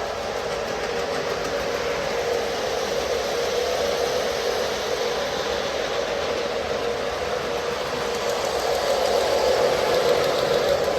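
O scale Lionel model train, two Dash 8 diesel locomotives pulling tank cars, running on three-rail track: a steady whir of motors and wheels, growing somewhat louder near the end.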